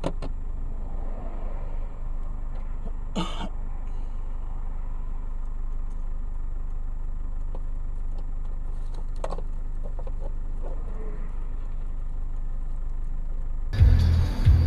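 Steady low hum of a car running, heard from inside the car, with a few short knocks. Near the end it gives way to louder music with a heavy beat.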